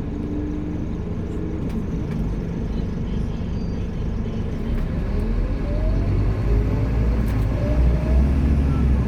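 Scania K230UB Omnilink bus running, its engine note rising in pitch and growing louder about halfway through as the bus pulls away and accelerates.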